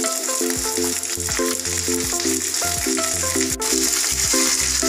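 Raw chicken pieces sizzling in hot oil on a bed of fried onions in a non-stick kadai, turned with a wooden spatula, under background music with a steady melody and bass line.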